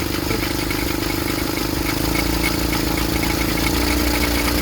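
Engine of a homemade helicopter running steadily, stepping up in pitch and getting louder about two seconds in and again near the end as it is revved.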